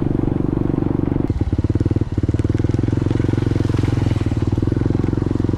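Motorcycle engine running steadily under way; its note changes a little over a second in.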